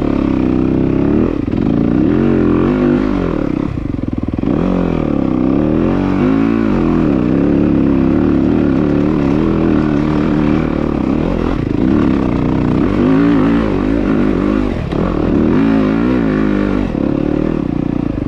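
Dirt bike engine running hard while riding, its revs rising and falling again and again as the throttle is worked.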